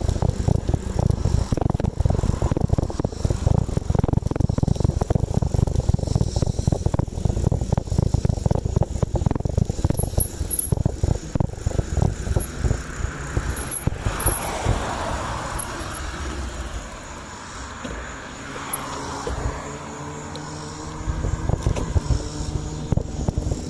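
Gusty wind rumble on the microphone of a moving bicycle, easing off about two-thirds of the way through. A couple of vehicles swell and fade as they pass. Near the end a motor vehicle's engine drone comes in.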